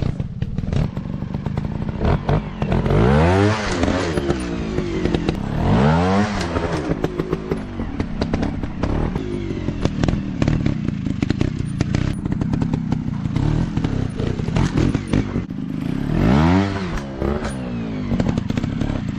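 Off-road dirt bike engine revving, its pitch climbing and dropping back sharply three times over a steady running note, with clattering knocks throughout.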